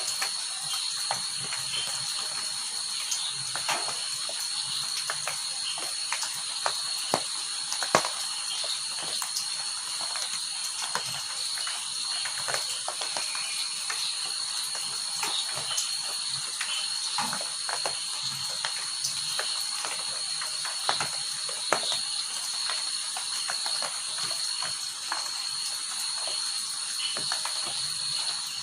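Rain falling, with many scattered drops ticking sharply on nearby surfaces, over a steady high-pitched ringing drone in the background.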